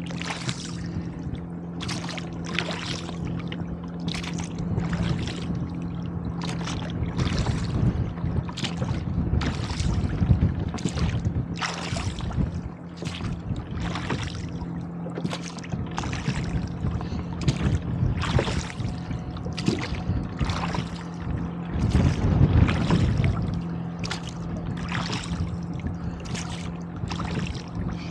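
Oars working a rowboat at a steady rhythm, with regular splashes and knocks of the oars in the oarlocks, over wind rumbling on the microphone in strong gusts.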